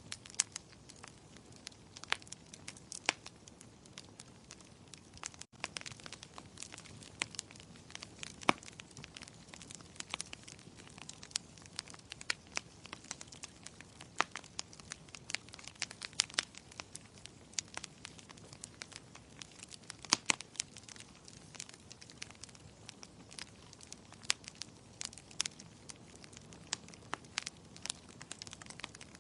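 Wood fire crackling in a fireplace: irregular sharp pops and snaps over a soft steady hiss of flames.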